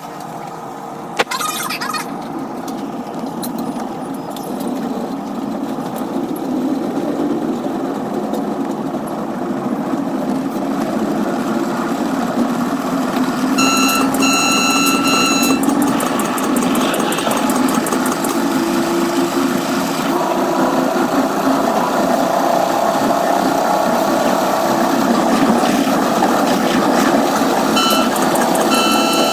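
Rail and wheel noise heard from the cab of a Caltrain gallery cab car, a steady rumble growing louder as the train gathers speed. A sharp click comes about a second in, the train horn sounds one blast of about two seconds near the middle as a grade crossing comes up, and a few short horn toots follow near the end.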